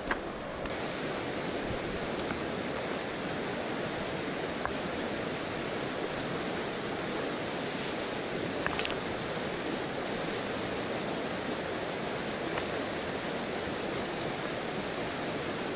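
Steady rushing of river water, with a few faint small clicks about halfway through.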